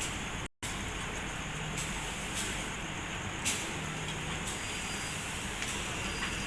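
Steady noise of a diesel-hauled passenger train, with a low hum, a few scattered clicks and a hiss. The sound cuts out for a moment about half a second in.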